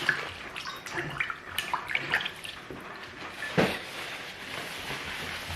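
Close-miked wet eating sounds: irregular smacks and clicks of chewing and mouth noises, with one louder knock about three and a half seconds in.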